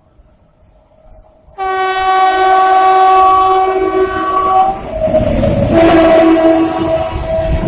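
Indian Railways locomotive horn blowing suddenly about a second and a half in, one long blast of about three seconds, then a lower horn note over the loud rumble of the train passing close by.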